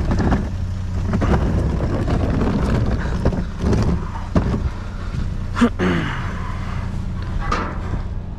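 A vehicle engine idling with a steady low hum, over irregular rustling, knocking and clattering of junk being moved around in a dumpster. One sharper clank comes about five and a half seconds in.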